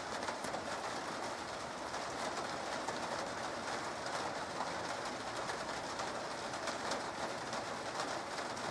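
Light rain falling, a steady even patter with fine drips.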